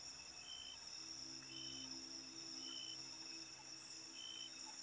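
Faint night insect chorus: crickets trilling steadily, with a short higher chirp repeating about once a second, over a faint low drone.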